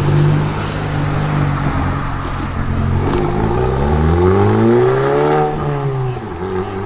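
White SEAT León hatchback's engine and exhaust pulling away at low revs, then revving up for about two seconds before the revs drop back.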